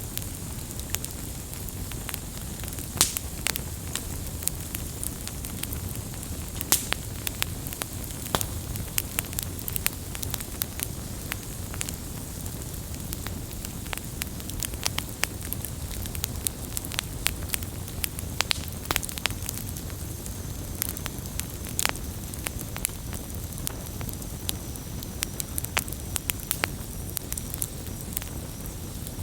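Wood campfire burning steadily, with a low roar of flame and frequent sharp, irregular crackles and pops.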